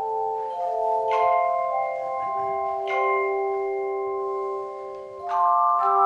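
Handbell choir ringing chords: several bells struck together, each chord left ringing for a second or two before the next.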